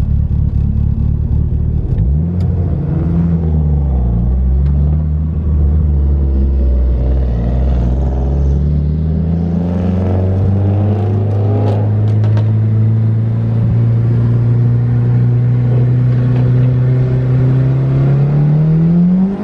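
Big-turbo DSM's turbocharged four-cylinder engine driving on the road. The note falls and rises with throttle and shifts in the first few seconds, climbs again, holds steady for several seconds while cruising, then rises near the end.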